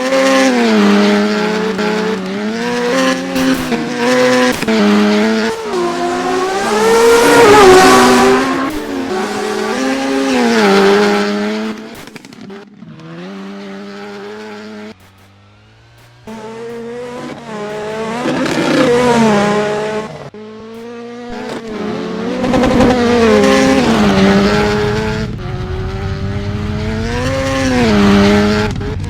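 Rallycross cars racing past, engines revving up and dropping back again and again through gear changes. The loud passes come in waves, with a quieter stretch about halfway through.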